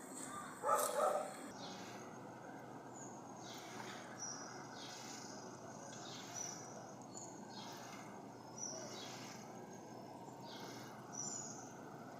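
A dog barks twice about a second in. Then a short high chirp, falling in pitch, repeats roughly every second or so over a steady background hiss.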